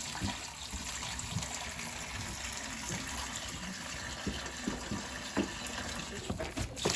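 Water from a hose pouring steadily into a livestock water trough as it fills, with a sharp knock just before the end.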